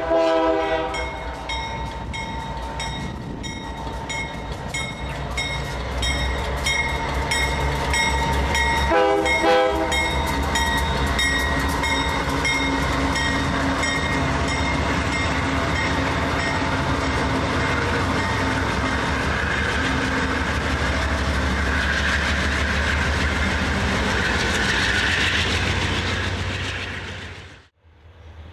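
Diesel freight train led by a Union Pacific GE locomotive passing close by. Its horn sounds a short blast at the start and another about nine seconds in, and a bell rings steadily for the first dozen seconds. The engines and wagons rumble and roll past throughout, and the sound cuts off suddenly near the end.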